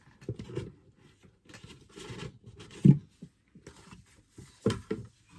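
Paper and card being handled and rustled as items are taken out of a subscription box, with light knocks; the loudest is a sharp bump about three seconds in.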